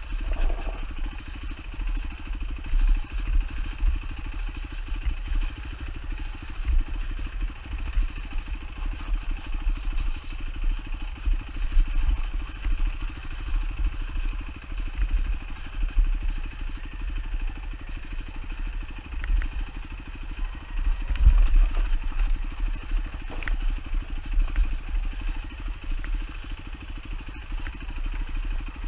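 Single-cylinder four-stroke engine of a 2007 Yamaha WR450F dirt bike running at low revs, its level rising and falling unevenly, with a few short knocks a little past the middle.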